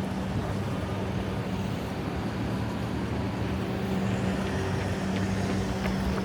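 City street traffic: vehicles running, with a steady low engine hum under the general rumble.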